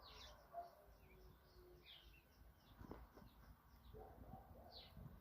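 Faint chirping of small birds, a few short downward-sweeping calls over quieter twittering, with a soft knock about three seconds in.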